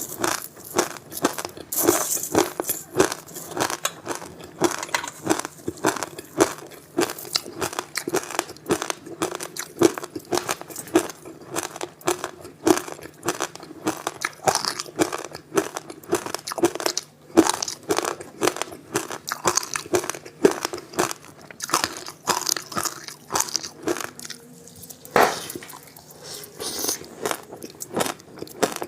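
Passion fruit ice with sesame seeds being bitten and chewed: dense crunching with many sharp cracks a second. Near the end there is a short pause, then one loud crack.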